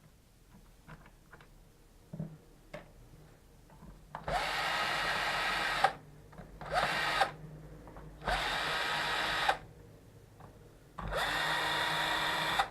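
Electric screwdriver running in four short bursts, each a whine that spins up as it starts, backing screws out of the laptop's case. A few light clicks come before the first burst.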